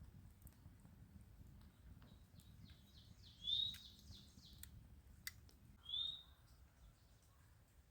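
A bird chirping faintly: two short high calls about two and a half seconds apart, with a quicker run of fainter notes around the first, over a low outdoor rumble and a few sharp ticks.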